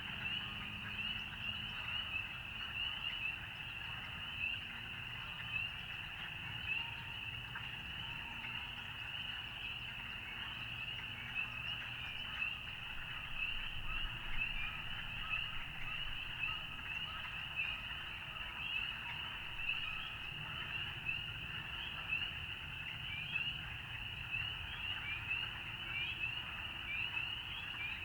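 Dense frog chorus: many short, rising, high-pitched peeps overlapping without a break, with softer calls lower down.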